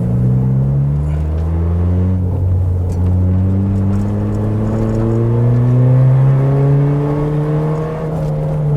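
Car engine accelerating through the gears, its pitch rising, dropping at a gear change about two seconds in, then rising steadily again before easing off near the end.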